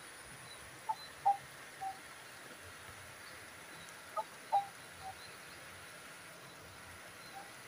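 A bird calling in short three-note phrases, twice, over a steady hiss of light rain.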